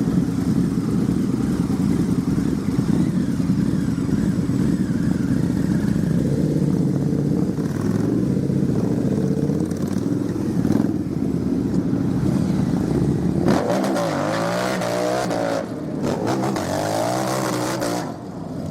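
Harley-Davidson motorcycle engine running with a steady low rumble, then revved up and down a few times near the end, its pitch rising and falling.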